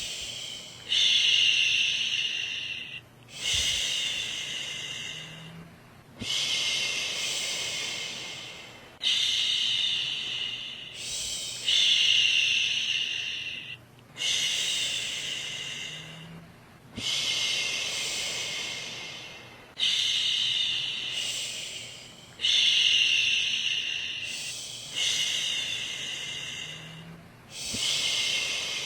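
A woman's voice shushing, "shhh", again and again to soothe a baby to sleep. Each shush lasts about two to three seconds, starts sharply and fades out, with a short pause between, about ten in all.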